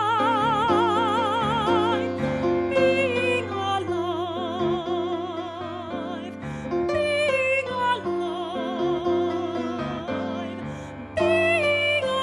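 Soprano voice singing long held notes with a wide, even vibrato over piano accompaniment, with short moving phrases between the held notes.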